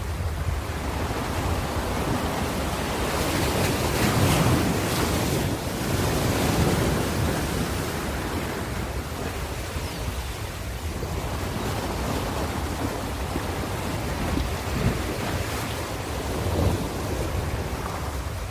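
Ocean waves breaking on a shore in a continuous wash, with a larger wave cresting about four seconds in and smaller surges later. A low rumble underlies it throughout.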